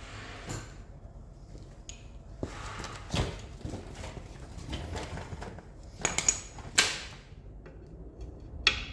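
Spanner and hand tools knocking and clinking on the metal rear brake assembly while the wheel-cylinder bolts are undone. There are scattered knocks, a cluster of sharp metallic clinks a little past the middle and one more clink near the end.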